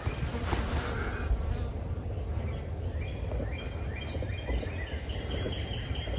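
Crickets or other insects droning steadily in a high, even tone, with a run of short repeated chirps in the second half over a low rumble.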